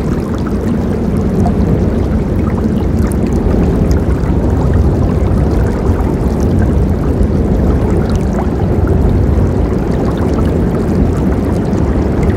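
Forest river rushing steadily, a constant deep wash of flowing water with faint splashes and droplet ticks above it.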